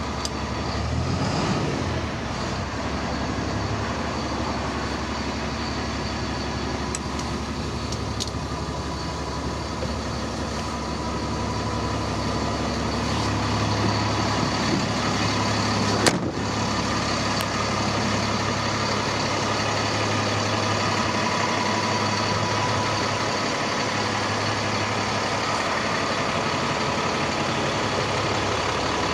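DAF CF65 truck's diesel engine idling steadily, its pitch rising and falling once about a second in. A single sharp click sounds about halfway through.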